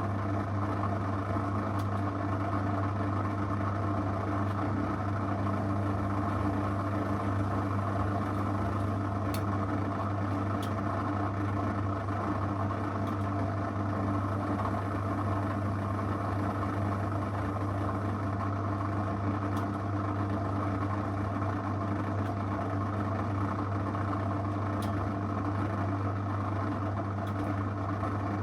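Zanussi FL984CN washing machine running a 35° wash program: a steady low hum that does not pause or change, with a few faint ticks.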